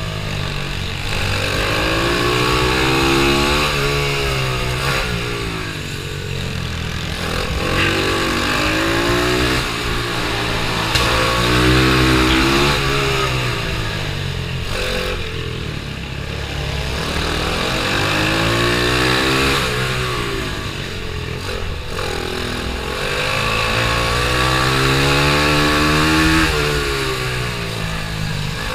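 Racing pit bike engine revving hard, its pitch climbing and falling again and again every few seconds as the rider accelerates and backs off around the track.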